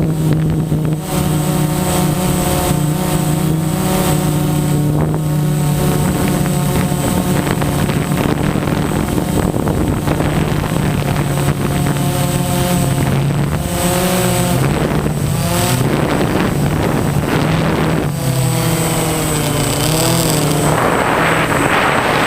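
DJI Phantom quadcopter's motors and 9-inch propellers whining in flight. The pitch holds steady, then wavers up and down as the throttle changes. Wind rushes over the microphone near the end.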